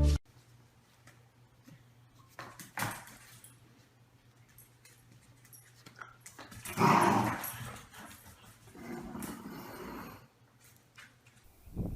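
A corgi puppy makes a few short vocal sounds, the loudest about seven seconds in, over a faint steady low hum.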